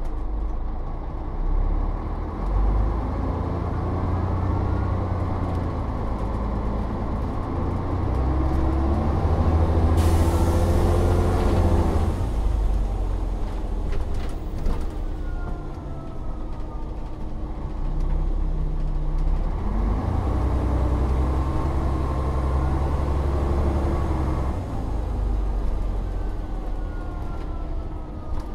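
Volvo Olympian double-deck bus engine pulling away and accelerating, its pitch climbing and then dropping at the gear changes, twice. A burst of hiss sets in about ten seconds in and lasts a couple of seconds.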